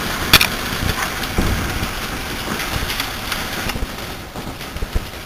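Pea-to-marble size hail and rain pelting down in high wind: a steady hiss of falling hail and rain with scattered sharp ticks of hailstones striking, one loud crack shortly after the start, and uneven low gusts of wind rumbling. It eases a little near the end.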